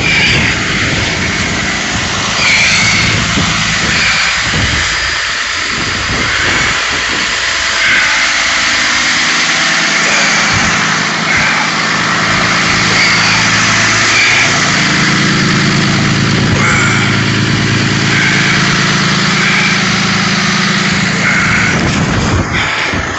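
A truck engine idling steadily, its hum growing stronger about fourteen seconds in, with wind noise on the microphone.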